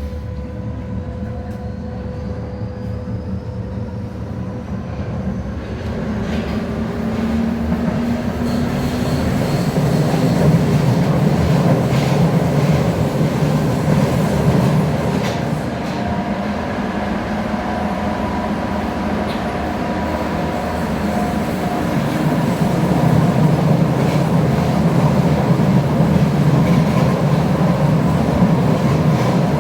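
Ansaldo Breda Ankaray light-metro train running on its rails: a rising whine as it gathers speed over the first several seconds, then a loud steady rumble of wheels on rail with scattered clicks.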